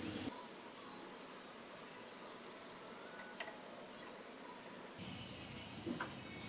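Faint steady background hiss with a few soft, brief clicks.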